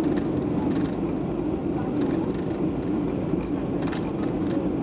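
Steady drone of a jet airliner heard from inside the cabin: engine and airflow noise with a strong low hum, and a few light ticks and rattles over it.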